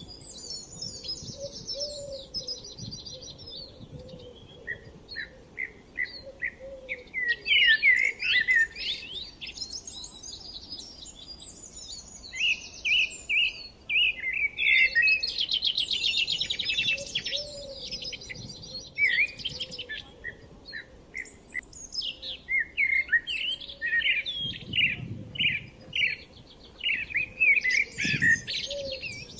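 Several forest songbirds singing and chirping over one another, with rapid high trills and series of short repeated chirps, and a faint low call now and then.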